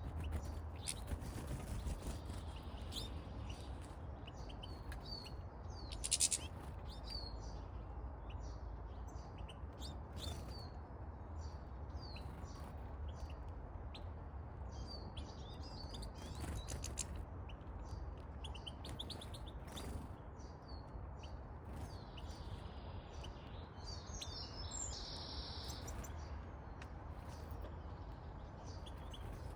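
A flock of goldfinches and siskins chattering and twittering at a garden feeder, a steady stream of short high chirps and trills. A brief loud noisy burst, the loudest sound, comes about six seconds in, over a steady low rumble.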